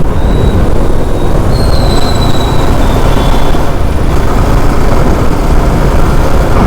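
Motorcycle riding noise: wind rushing over the rider's camera microphone with the bike's engine running underneath, loud and steady, and a faint high whistle-like tone for a couple of seconds about a second and a half in.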